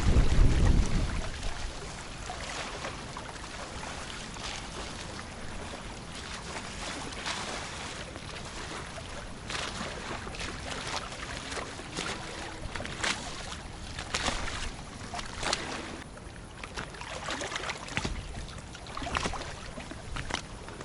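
Water splashing and sloshing around a small boat, with irregular light knocks and splashes. A burst of wind rumbles on the microphone at the start.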